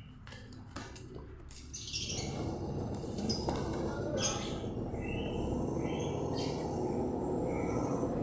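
Birds chirping in short calls, over a steady low noise that comes up about two seconds in.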